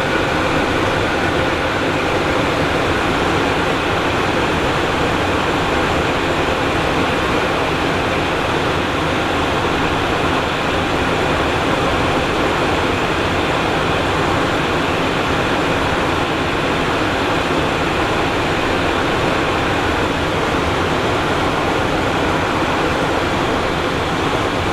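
Steady cabin noise inside a Cessna Citation Encore jet's cockpit in descent: the even rush of air past the cockpit mixed with the hum of its turbofan engines, unchanging throughout.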